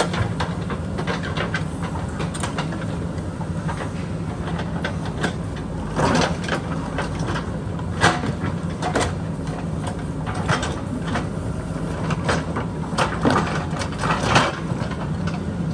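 JCB backhoe loader's diesel engine running steadily under work, with irregular knocks and clanks as the bucket works among rock and boulders.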